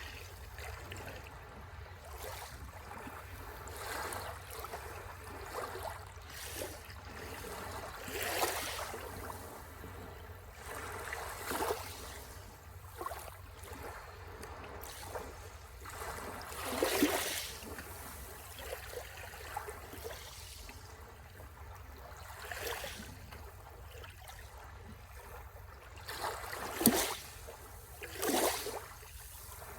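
Sea waves washing on the shore: a steady rush of surf, broken by a handful of short, louder splashes as waves break, the sharpest two near the end.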